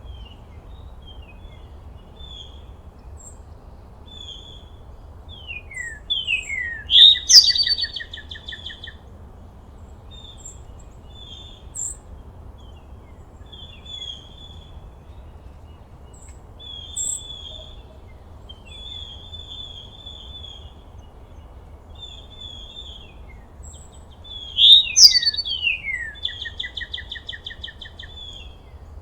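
Wild birds singing: a loud song phrase of quick falling whistles ending in a fast trill comes twice, about 6 seconds in and again near 25 seconds, with softer chirps and short notes in between, over a faint low steady background noise.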